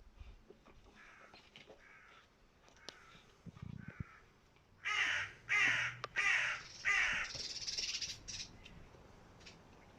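A series of harsh, raspy animal calls: a few faint ones, then four loud short calls in quick succession about halfway through, and a longer hoarse call after them.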